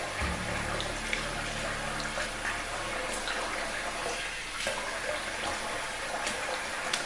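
Tap water running steadily into a bathroom sink, with small splashes as the alum is rinsed off a freshly shaved face.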